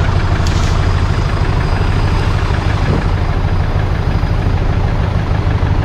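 Off-road 4x4's engine idling steadily close by.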